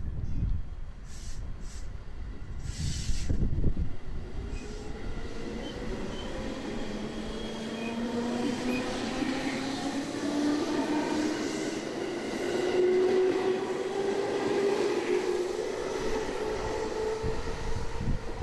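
Electric train pulling away from a station, its traction motors giving a whine in several tones that climbs steadily in pitch as it gathers speed. A brief louder rush of noise comes about three seconds in.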